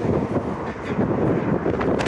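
Wind buffeting the phone's microphone, a loud, gusting rumble.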